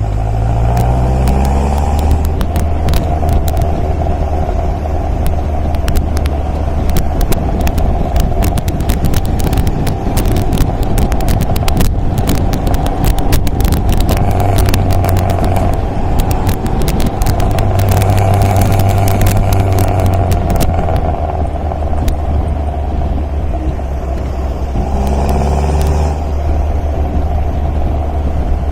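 MGA roadster's four-cylinder engine running under way. Its pitch rises in the first couple of seconds and again about 25 seconds in as it pulls, with many sharp clicks and clatter over the steady engine hum.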